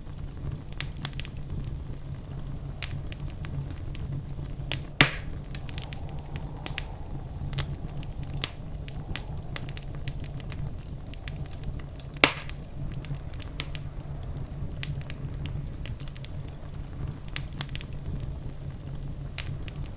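Wood fire crackling in a fireplace, with a steady low rumble of the burning fire under many scattered small snaps. Two louder pops stand out, about five and twelve seconds in.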